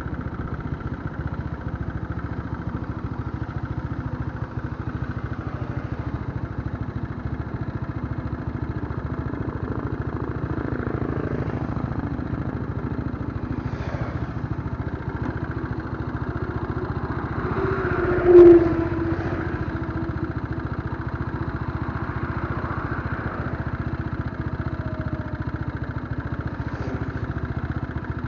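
Scrambler motorcycle engine running steadily under way, a low even drone. About eighteen seconds in, a brief, louder pitched tone sounds over it.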